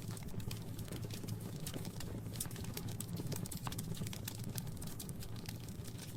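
Wood fire crackling in a fireplace: irregular sharp pops and snaps over a low steady rumble of the burning.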